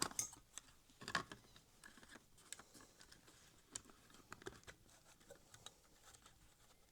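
Faint, irregular small clicks and taps of a plastic OO-gauge model locomotive body being fitted back onto its chassis.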